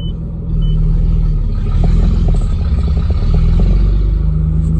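Nissan engine running straight-piped with the catalytic converter cut out, a loud low rumble that sounds like a tractor. It gets louder about half a second in, and its note rises and falls as the car is driven.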